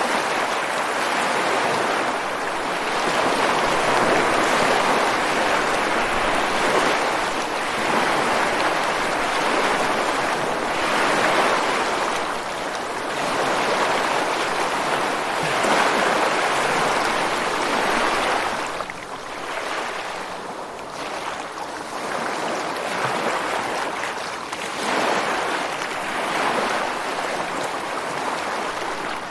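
Ocean surf breaking against rocks on a beach: a steady wash of water that swells and ebbs with each wave every few seconds, a little softer in the latter part.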